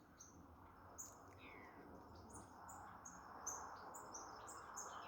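Wild birds feeding in a fruiting fig tree, calling in a faint mixed chorus: short, high chirps repeating over and over, with one downward-sliding call about a second and a half in.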